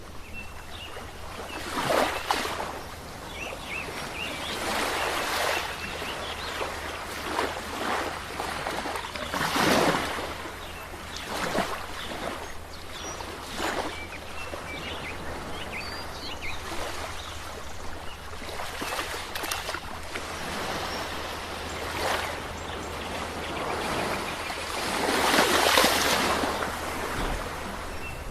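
Sea waves breaking and washing up a shore, surging every few seconds over a steady hiss of surf. The longest, loudest surge comes near the end.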